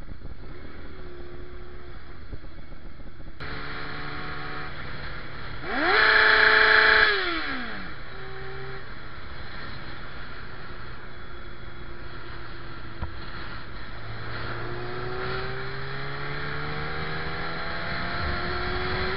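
Motorcycle engine running while riding. About six seconds in the revs shoot up to a loud peak, hold for about a second, then drop away; later the revs climb slowly as the bike accelerates.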